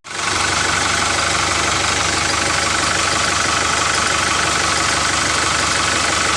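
A motor or engine running steadily with a fast, even chugging pulse, starting abruptly.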